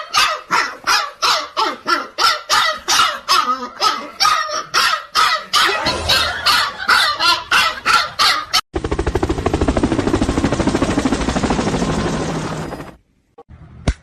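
A dog barking rapidly and repeatedly, about three barks a second. It cuts off suddenly and gives way to a loud, steady, fast buzzing rattle lasting about four seconds, which ends abruptly.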